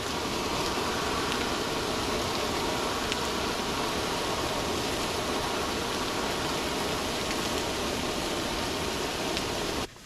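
Steady sizzling of food frying in a pan, an even hiss that starts and cuts off abruptly.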